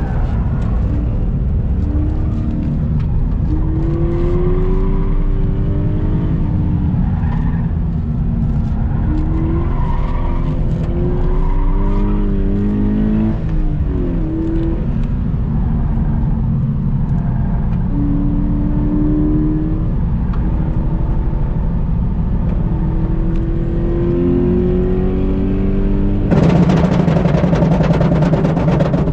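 Car engine pulling under load, its pitch climbing and dropping again and again as it accelerates and shifts, over a steady loud rumble of road and wind noise. Near the end a louder, harsher noise cuts in abruptly.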